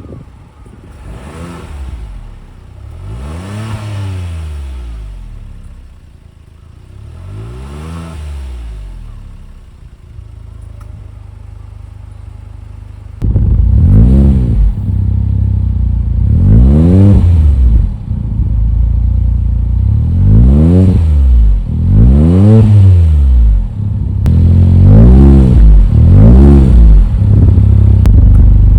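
Suzuki Jimny JB64W's 660 cc turbocharged three-cylinder engine revved up and back to idle again and again. About three softer revs come first; then it suddenly gets much louder, with a steady idle and about six more revs.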